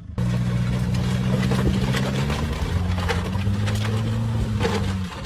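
A vehicle engine running steadily with a low hum, its pitch shifting up a little about halfway through, over a rough noisy background.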